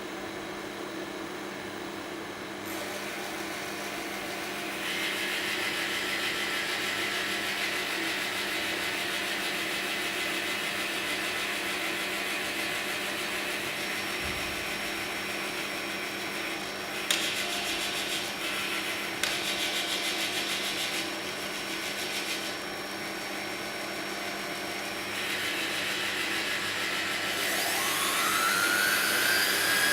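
Layered machine-like noise over a steady hum, with bands of hiss that switch on and off, a sharp click a little past the middle, and several whines rising in pitch near the end, like motors spinning up.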